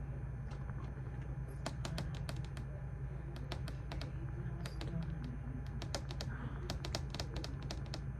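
Typing on a computer keyboard: irregular runs of keystroke clicks starting about one and a half seconds in, over a steady low hum.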